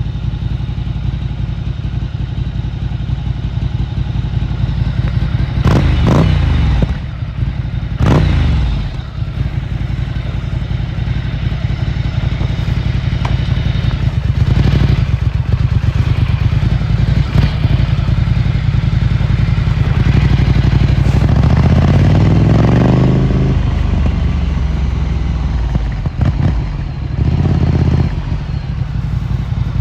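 Ducati Monster 797's air-cooled L-twin engine through a Termignoni exhaust, heard while riding. It runs steadily under load, with quick rev changes about six and eight seconds in and a long rising acceleration in the second half that drops off a few seconds later.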